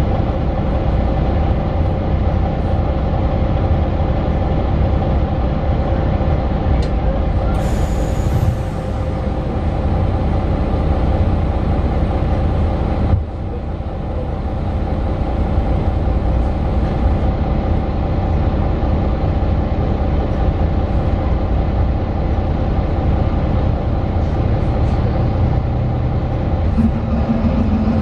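Interior sound of a Mercedes-Benz Citaro 2 city bus on the move, its OM 936 six-cylinder diesel and ZF Ecolife automatic gearbox running steadily. The sound drops suddenly about halfway through and then builds again, and a new low tone joins near the end.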